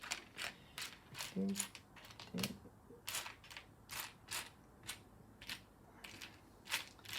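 Loose plastic Lego pieces clicking and clattering as hands sort through them, a string of irregular sharp clicks, several a second.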